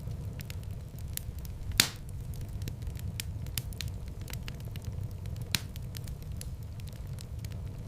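Wood fire crackling in a fireplace. Many small crackles ride over a steady low rumble, with two louder pops, one about two seconds in and another a little past five seconds.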